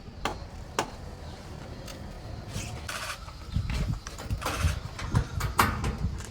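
Scattered sharp knocks and clacks, about half a dozen, over a low rumble that grows louder about halfway through: objects being handled amid work noise.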